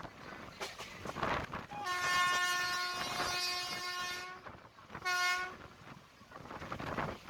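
Indian Railways locomotive horn sounding one long blast of about two and a half seconds, then a short blast about a second later, over the rumbling of the moving train.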